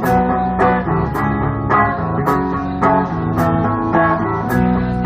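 A rock band playing live in an instrumental passage between sung lines: guitars over a steady beat, with sharp hits falling at regular intervals.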